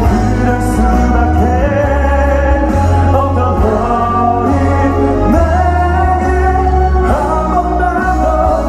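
Live pop ballad amplified through a PA: a male voice holding long sung notes over band accompaniment with a heavy bass.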